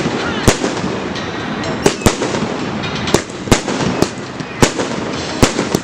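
Aerial fireworks display: about nine sharp shell bursts at irregular intervals, some in quick pairs, over a continuous crackling haze.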